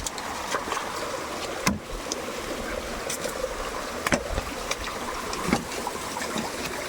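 Stream water running steadily, with a few dull thumps about two, four and five and a half seconds in.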